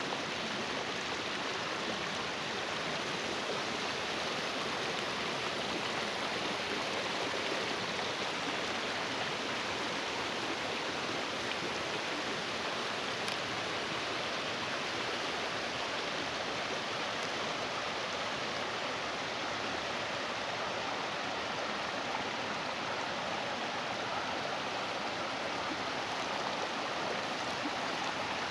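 Water flowing in a stream, a steady rushing with no breaks or changes.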